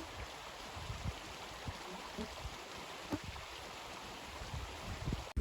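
Steady rushing of running water, with a few faint low knocks.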